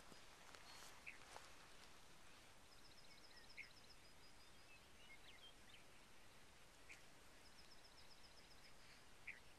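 Near silence on an open hillside, with faint bird calls: a fast, high trill twice, a few seconds apart, and a few short chirps.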